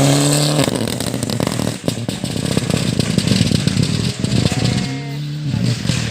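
Rally car engine revving hard, its note rising and cutting off about half a second in. Then comes a rapid crackle of sharp pops and clatter over a low rumble for several seconds, before the engine note climbs again near the end.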